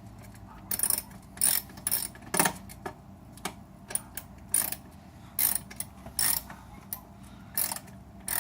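Hand ratchet wrench clicking in a run of short strokes, about two a second, starting about a second in, as a bolt is worked loose.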